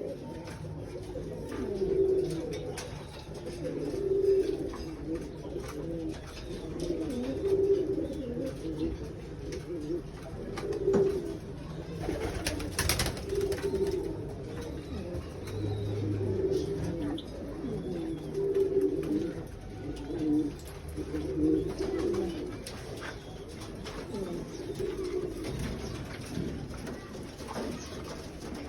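Homing pigeons cooing over and over, low wavering coos every second and a half to two seconds, with a sharp click about halfway through.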